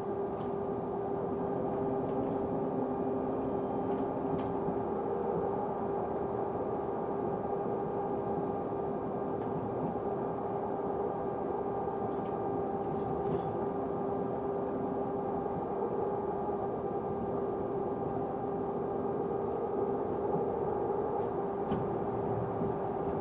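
A bus's weird steady whine on a constant pitch, with fainter overtones, over low engine and road rumble inside the bus, with a few faint ticks.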